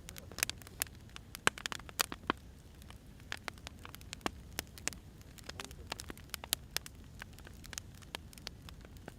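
Burning firewood crackling, with irregular sharp pops and snaps over a steady low hiss.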